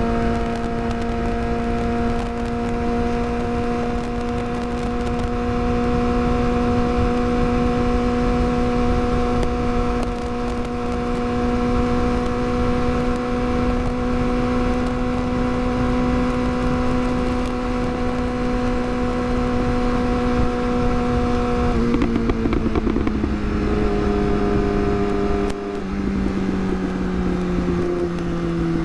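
Yamaha R6's 600cc inline-four engine at a steady cruise, its note holding nearly constant over a low rushing noise. About three-quarters of the way through the pitch drops in a couple of steps as the bike slows.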